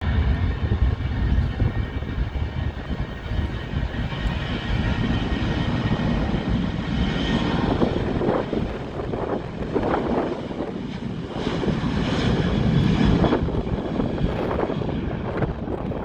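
Airplane taking off: its engines run at takeoff power, a loud, steady rumble that swells and fades in places.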